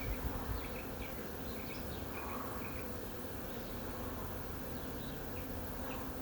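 Honey bee swarm buzzing steadily as the bees circle, land and crawl into the capture box.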